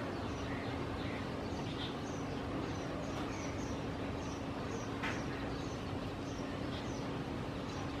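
Small birds giving short, high chirps, repeated every few tenths of a second. Behind them runs a steady low hum and a haze of background noise.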